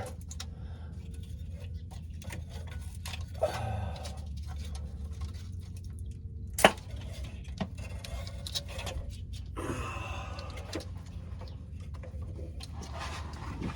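Small clicks and rattles of hands working a spark plug wire and tools around the distributor, with one sharp click about six and a half seconds in, over a steady low hum.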